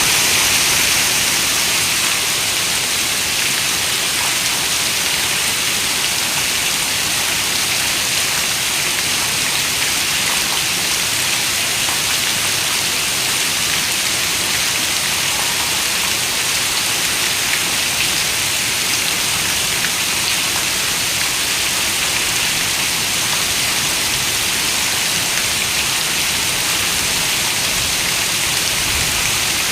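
Heavy rain falling steadily on a window: a dense, even hiss, brightest in the treble, with no thunder.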